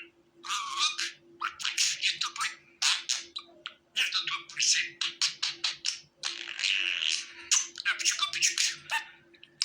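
Budgerigar warbling and chattering: fast strings of chirps, clicks and squeaky notes in bursts with brief pauses.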